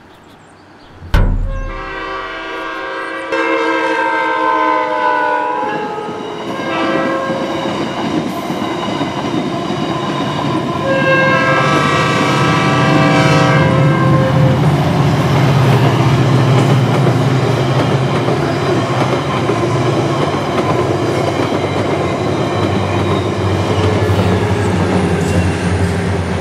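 A sledgehammer strikes once, sharp and loud, about a second in. Then a commuter train sounds its horn in two long blasts as it reaches a level crossing, followed by the steady rumble and clickety-clack of the passenger cars going by.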